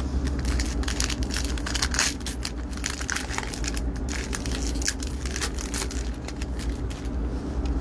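Foil wrapper of a Topps baseball card pack being torn open and crinkled: a run of irregular crackling rustles.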